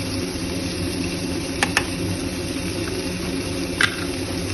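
Steady hum and hiss of kitchen cooking noise over a spice mixture in a kadai, with a metal spoon clinking against the pan twice in quick succession and once more near the end as ground spices are added by the tablespoon.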